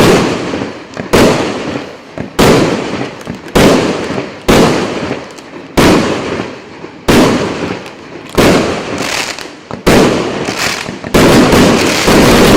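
A 49-shot, 1.2-inch consumer firework cake battery firing its shells one after another, about one bang a second, each bang followed by a fading tail. Near the end several shots go off in quick succession.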